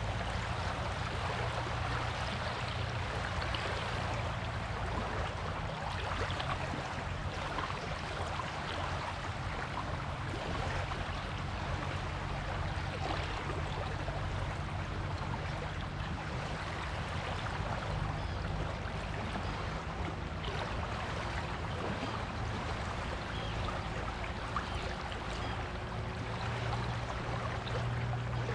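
Waves washing and fizzing on a beach in a continuous wash of surf, with a steady low hum underneath.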